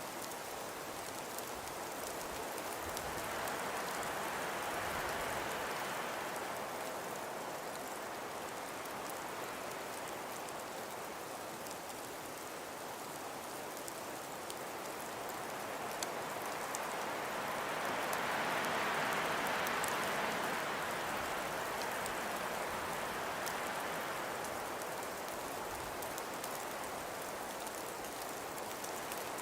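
Winter wind blowing with snow falling, a steady rushing that swells in two slow gusts, one a few seconds in and a stronger one past the middle. Faint scattered ticks of snow striking a surface run through it.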